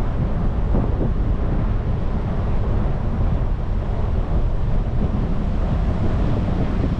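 Wind buffeting the microphone while riding a bicycle: a steady, loud low rumble.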